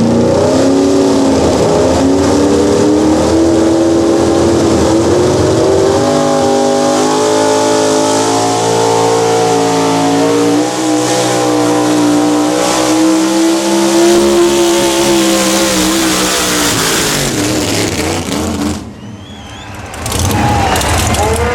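Modified pulling truck's engine at high revs during a pull: its pitch climbs in the first seconds, holds high and fairly steady, then falls away and drops off about nineteen seconds in. Another engine revs up near the end.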